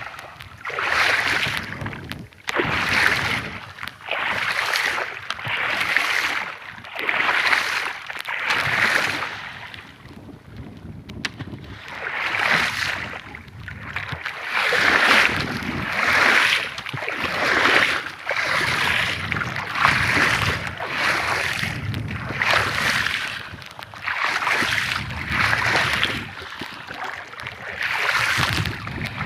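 Paddle strokes splashing in seawater in a steady rhythm, about one every second and a half, with a short lull about ten seconds in; wind buffets the microphone.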